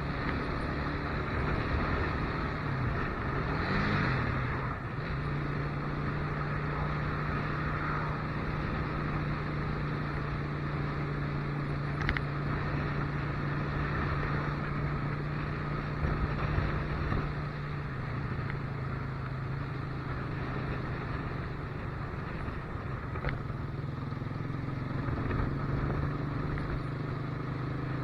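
Motorcycle engine running steadily under way, with a brief rise in revs about four seconds in and changes in engine pitch a little later and again past the middle, over a steady rush of wind and road noise.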